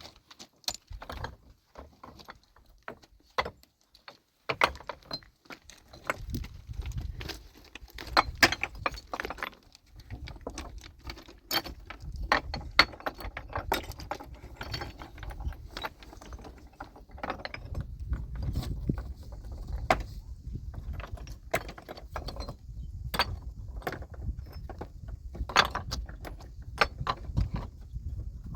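Irregular sharp clinks and knocks of hard objects being handled, several a second at times, over a low rumble that comes in about six seconds in.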